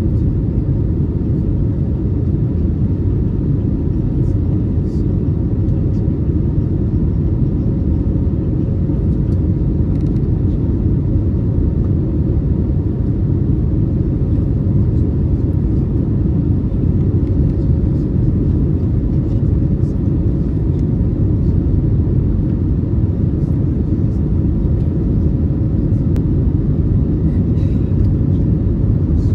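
Cabin noise of an Airbus A321neo, heard from inside the passenger cabin: a steady low rumble of engines and airflow with a faint even hum, no change in level throughout.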